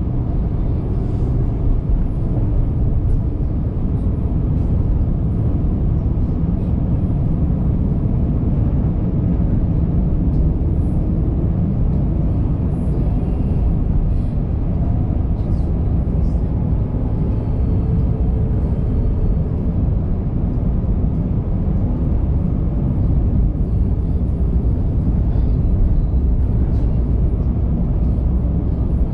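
Steady deep rumble of a car driving, mostly tyre and road noise with engine hum, heard from inside the car.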